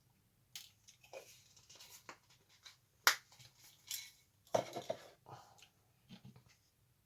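Irregular clicks, taps and rustles of small objects being handled and rummaged through, with the sharpest click about three seconds in and a short flurry of knocks and rustling about a second and a half later.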